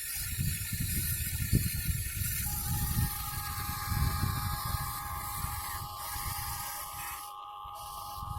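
Small electric motors and plastic gearboxes of an Amewi/Huina 1580 v4 RC excavator running with a steady high whine, which cuts in about two seconds in, over a rough low rumble.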